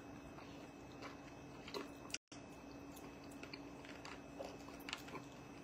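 Faint mouth sounds of hard candies being sucked and chewed, with small scattered clicks of the sweets against teeth, over a steady low hum. The sound cuts out completely for a moment about two seconds in.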